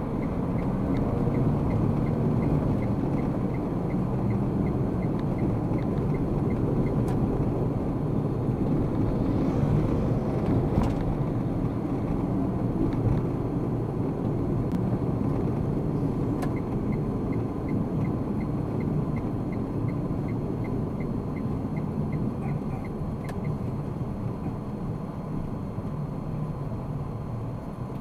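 Steady road and engine noise of a car driving. A turn-signal indicator ticks evenly for the first several seconds, then again for a few seconds later on.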